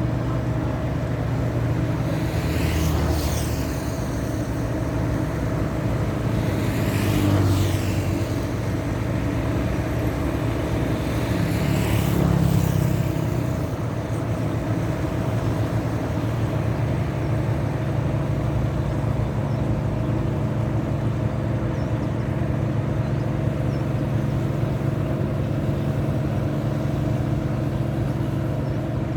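Steady low drone of a tugboat's diesel engine, with three vehicles swishing past close by, about three, seven and twelve seconds in.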